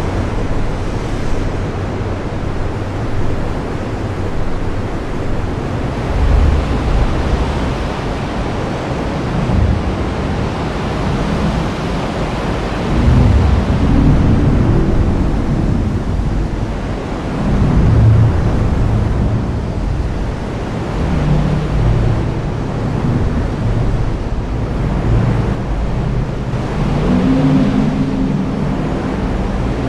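Heavy rain falling steadily, with low rolls of thunder rumbling up and fading several times.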